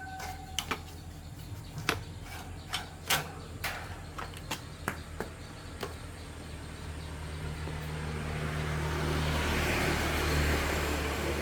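A steady low mechanical hum with scattered sharp clicks and knocks. About halfway through, a hissing rush of noise builds up and grows steadily louder until the end.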